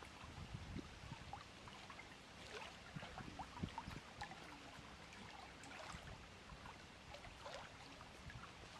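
Lake water lapping faintly at the shore, with soft trickling and many small quick plips. There are low rumbles mostly in the first second.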